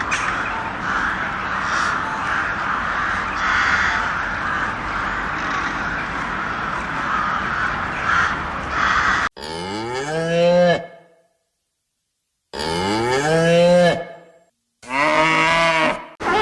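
For about nine seconds there is a steady noisy hiss. Then a cow moos three times, each call lasting about a second and a half, with short silences between them.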